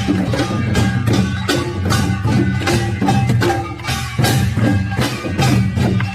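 Korean pungmul folk percussion being played in practice: a fast, steady rhythm of dense, sharp strokes.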